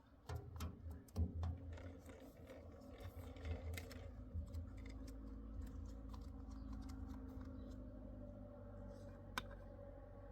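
Irregular light clicks, taps and scrapes from handling objects, with a sharper knock about a second in and another near the end, over a low rumble.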